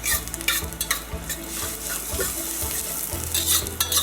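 Minced garlic, shallots and ginger sizzling in hot oil in a wok while being stir-fried, with a steady hiss broken by short scrapes and clinks of the spatula against the wok.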